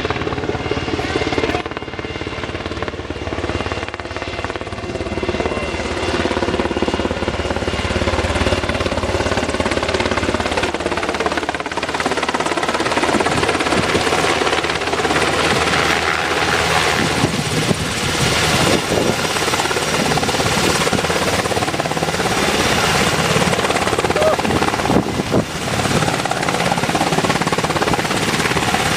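Helicopter running steadily, its engine and rotor noise continuous throughout.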